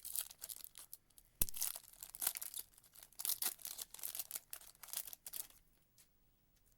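Foil wrapper of a 2024 Panini Prizm football card pack being torn open and crinkled, in a run of rustling strokes with one sharp click about a second and a half in; the rustling stops about five and a half seconds in.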